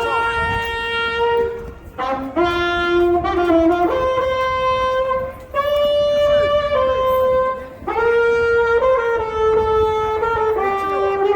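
A brass horn playing a slow melody of long held notes, each lasting a second or two, with short breaks between phrases.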